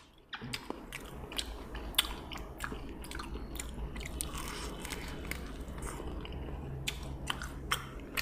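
A person biting and chewing crunchy fried food close to the microphone, with sharp, irregular crunches about twice a second.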